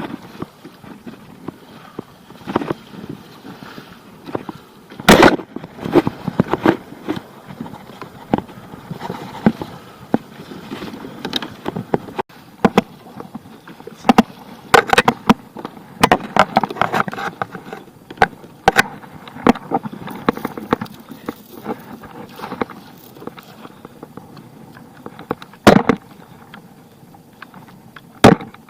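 Moken 14 fishing kayak out on rough sea: irregular knocks and splashes of paddle and water against the hull, with a few sharp loud bangs about five seconds in and again near the end.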